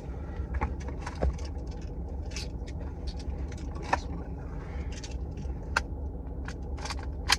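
Steady low rumble of a motor vehicle running, with scattered light clicks and taps over it.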